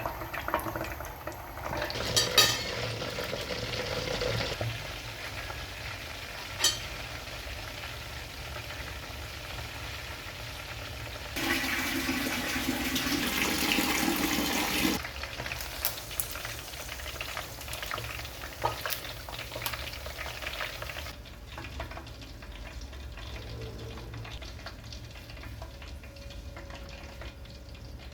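Chicken thighs frying in hot oil, a steady sizzle that changes several times and is loudest a little before halfway through, with a few sharp clicks.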